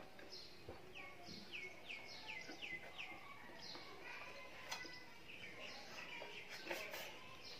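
A bird calling faintly: a quick run of about five descending chirps a second in, then more scattered chirps.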